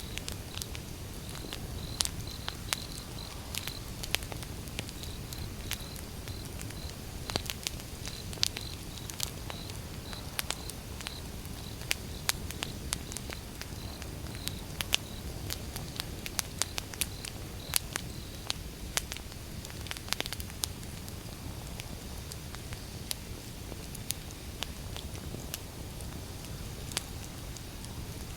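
Wood fire burning, with a steady low rush and many sharp, irregular crackles and pops of the burning firewood. A faint, evenly repeated high chirp runs through about the first half.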